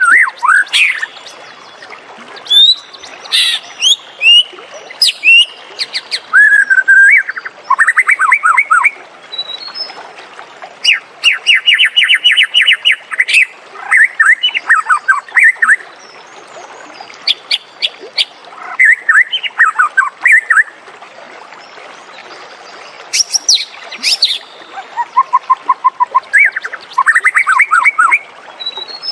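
White-rumped shama singing: a varied string of whistled phrases, fast trills and runs of quick repeated notes, with short pauses between phrases.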